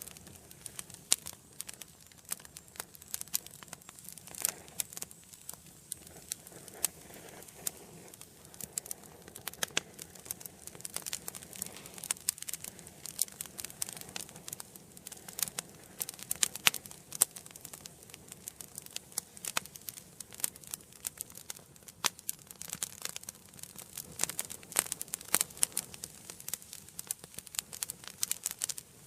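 Wood fire in an indoor fireplace crackling, with many sharp, irregular pops and snaps over a faint steady hiss of the flames.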